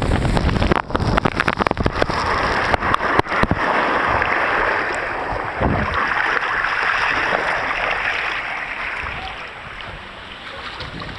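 Rushing, splashing water of a water slide and its splash pool, with wind buffeting the microphone in crackles and thumps over the first few seconds. The rush eases off toward the end.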